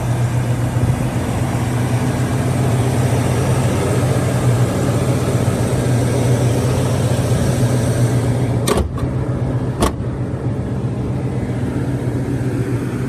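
1989 Chevy Caprice Brougham with Flowmaster mufflers idling steadily, a low even exhaust hum. Two sharp knocks sound about a second apart roughly two-thirds of the way through.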